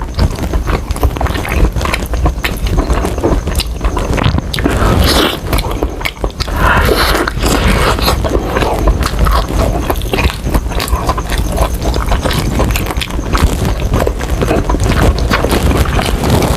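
Close-miked chewing of crispy fried chicken: a dense, irregular run of crunches and wet mouth sounds.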